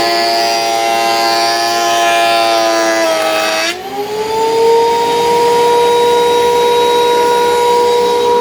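Thickness planer cutting a maple board carried on an MDF sled, the motor whining under load with loud cutting noise. About four seconds in, the cut ends and the motor's pitch rises to a steady free-running whine.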